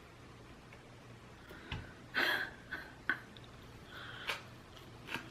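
A person eating sushi. After a quiet start there is a low knock, then one louder short noise about two seconds in, then several light clicks.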